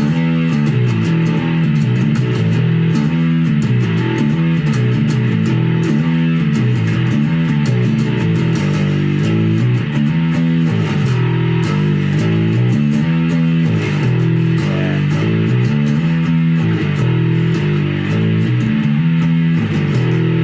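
Epiphone Grabber electric bass on its humbucker pickup, played through an MXR Bass Fuzz Deluxe pedal: a continuous repeating riff with a thick, fuzzy distorted tone.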